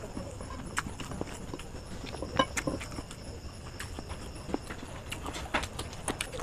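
Close-miked eating sounds: a mouth chewing chicken biryani, with irregular wet clicks and lip-smacks, one louder click about two and a half seconds in and a quicker run of clicks near the end.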